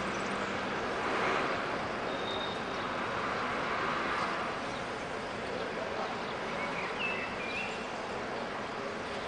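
Steady outdoor background noise, with a few short high chirps about seven seconds in.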